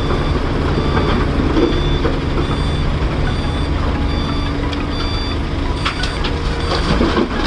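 Reversing alarm on heavy earthmoving equipment beeping at a regular pace, over the steady low running of heavy diesel engines.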